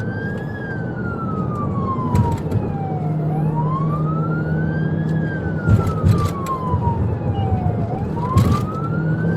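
Police car siren on a slow wail, rising for about a second and then falling for about three, repeating about every four and a half seconds, over steady vehicle engine and road noise with a few short knocks.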